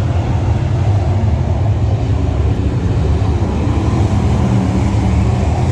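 Steady low drone of a motor vehicle running, with no revving or sudden changes.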